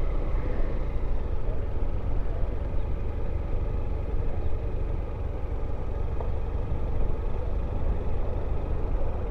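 Motorcycle on the move, heard from the rider's own mic: a steady rumble of engine and wind noise.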